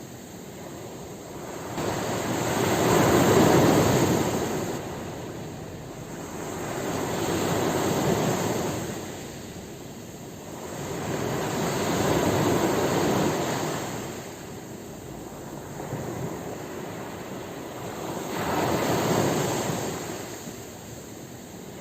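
Ocean waves breaking on a shore, four slow swells of surf noise, each rising and falling over four to five seconds, the first the loudest.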